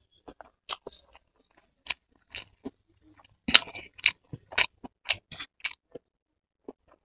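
Close-miked chewing of a mouthful of vegetable chowmein noodles: irregular wet smacks and clicks, a cluster of louder ones about three and a half seconds in.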